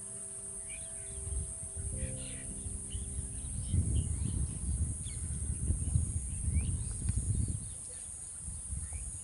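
Steady high-pitched insect drone with scattered short bird chirps. Soft background music with held notes plays in the first half, and a louder low rumbling noise runs from about four to seven and a half seconds in.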